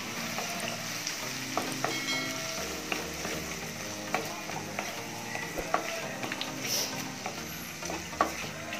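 Chopped onions and tomatoes sizzling in oil in a non-stick kadai while a spatula stirs them, with frequent short clicks and scrapes of the spatula against the pan.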